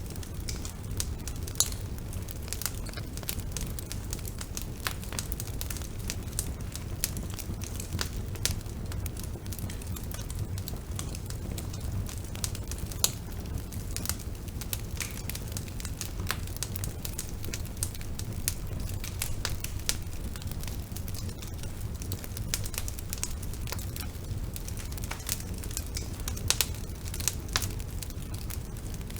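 Bonfire burning: a steady low rumble of flame under frequent, irregular sharp crackles and pops of burning wood.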